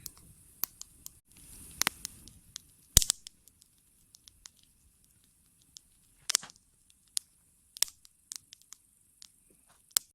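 Campfire crackling: wood popping in irregular sharp snaps with quiet gaps between them, the loudest pop about three seconds in.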